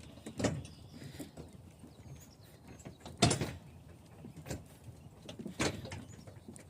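A few irregular knocks and clunks, four or five in all, the loudest about three seconds in.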